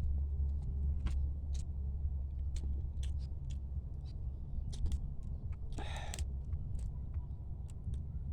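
Close-up eating sounds of crab: scattered short clicks and cracks of chewing and shell, with one louder crunchy burst about six seconds in, over a steady low rumble.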